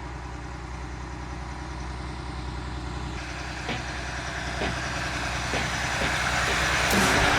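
Motorcycle engine running steadily with a low hum. From about halfway, drum-led music fades in and grows louder over it.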